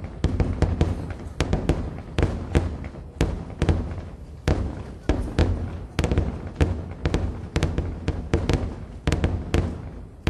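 Aerial firework shells bursting in a rapid barrage: deep booms about two to three a second, each trailing off in a rumbling echo.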